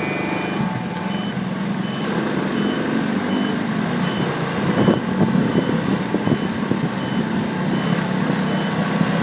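Motorcycle engine running under way in street traffic, its pitch rising and falling with the throttle, over a steady rush of road and traffic noise. A faint high beep repeats about twice a second throughout.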